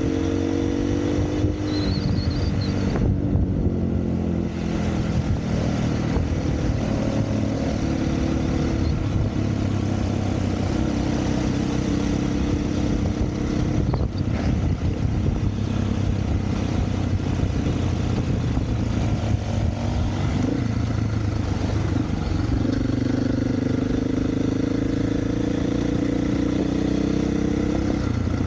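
Dirt bike engine running hard on a trail, its pitch rising and falling again and again as the throttle opens and closes.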